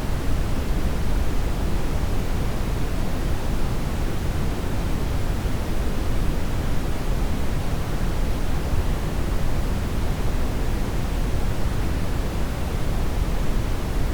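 Steady brown noise: an even, deep hiss, strongest in the low end and fading toward the highs, with no change.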